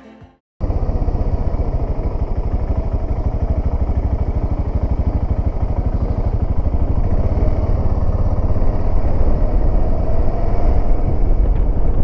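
Voge 650DS parallel-twin motorcycle engine running steadily as the bike is ridden at low speed, cutting in abruptly about half a second in and getting a little louder toward the end.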